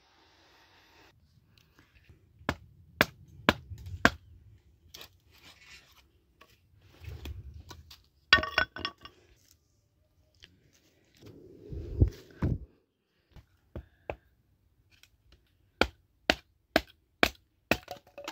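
A run of sharp, irregular knocks and clicks, with a short ringing clink a little after eight seconds and a quicker series of about two clicks a second near the end.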